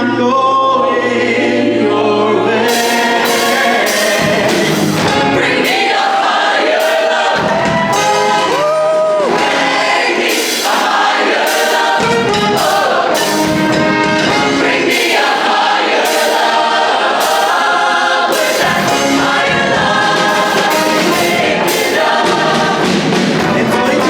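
Mixed show choir singing a pop medley with band accompaniment; a beat of drum hits comes in about three seconds in.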